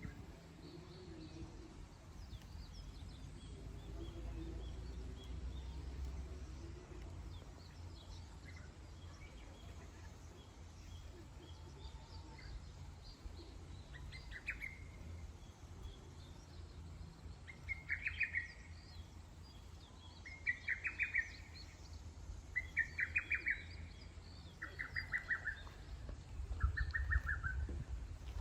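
Wild birds singing, with faint scattered chirps at first. From about halfway on, one bird repeats a short, buzzy trilled call every two seconds or so, six times, each louder than the background chirping, over a steady low rumble.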